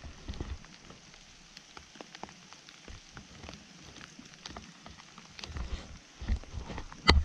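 Rain falling, with many small raindrop ticks over a steady hiss. Low thumps come in during the second half, and a sharp knock, the loudest sound, just before the end.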